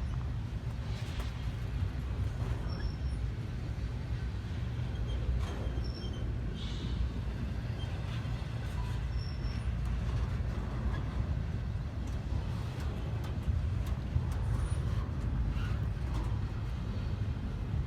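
Freight train rolling by: a steady low rumble of the cars on the rails, with faint scattered clicks and a few brief high squeaks.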